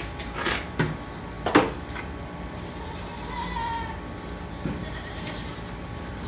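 A few sharp metal knocks and clinks from hydraulic pump parts and hand tools being handled on the bench, the loudest about a second and a half in. A short, faint bleat sounds in the background a little past halfway.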